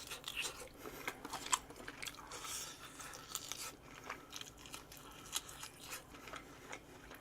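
Close-up chewing and biting with irregular crunches and wet clicks, from eating boiled pork off the bone along with kimchi.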